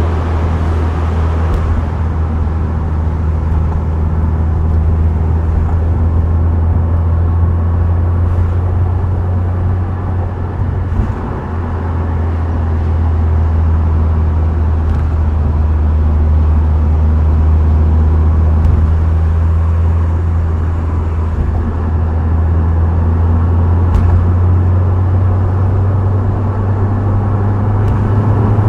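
Subaru WRX STI Spec C's turbocharged flat-four engine and aftermarket exhaust droning steadily at expressway cruise, with tyre and road noise. The drone eases briefly about eleven seconds in, then builds again.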